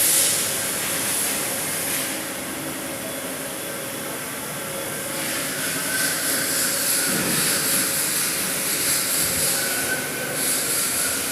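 Industrial parts washing machine running: a steady mechanical drone with a high hiss of spray, the hiss easing off for a few seconds and then returning.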